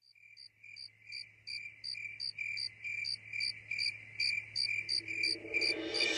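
Cricket chirping in an even rhythm, about three short chirps a second, fading in, over a faint steady low hum.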